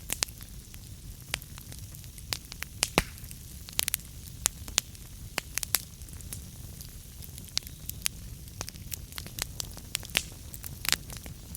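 Wood fire burning in a fireplace: irregular sharp crackles and pops of burning logs over a low steady rumble of the flames.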